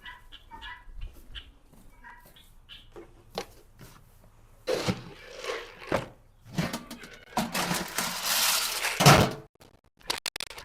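A few short animal calls, then several seconds of rustling and clattering that peak in a loud thunk about nine seconds in.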